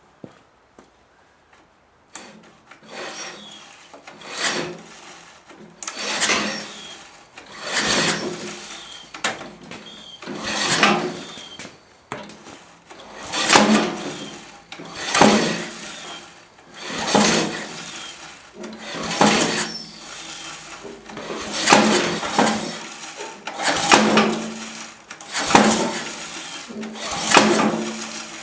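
Recoil pull-starter of a Briggs & Stratton 10.5 hp industrial/commercial engine being yanked over and over, about one pull every two seconds, starting about two seconds in. The engine turns over with each pull but does not catch on its cold first start.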